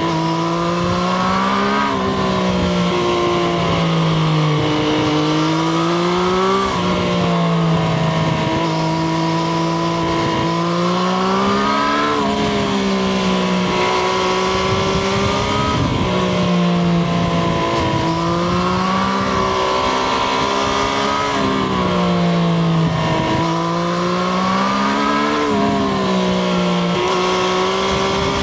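Triumph Street Triple RS's 765 cc inline three-cylinder engine running under load, heard onboard, its pitch rising and falling with the throttle and jumping sharply several times.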